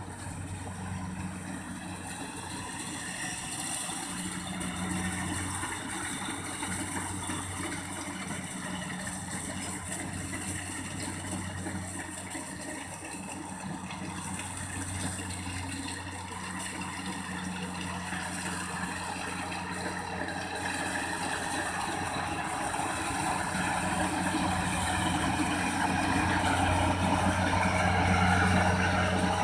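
Kubota rice combine harvester's engine running steadily, growing louder toward the end.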